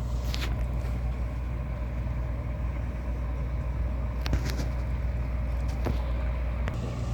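Steady low engine rumble, with a few short faint clicks.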